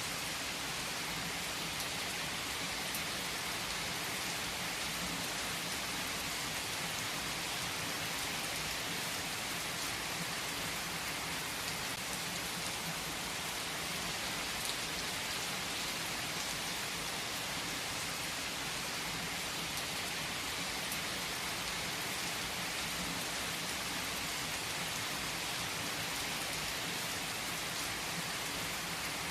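Steady rain falling and pattering on a surface, an even hiss with a few faint isolated ticks.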